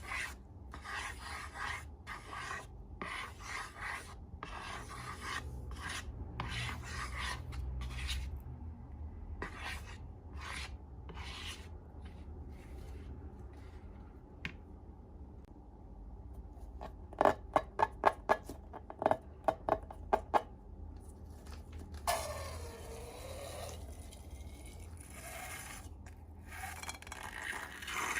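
Close-up slime-and-balloon handling: a run of short rubbing and scraping strokes. About two-thirds of the way through comes a quick series of sharp clicks, followed by a brief squeaky glide.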